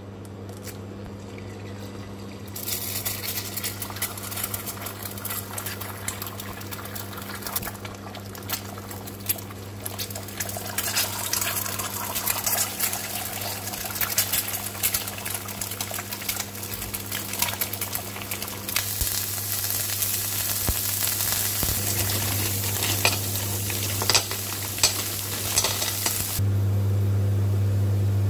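Eggs frying in hot oil in a nonstick frying pan, sizzling and crackling. The sizzle starts suddenly a couple of seconds in and grows louder in the second half. Near the end the crackle stops and a steady low hum takes over.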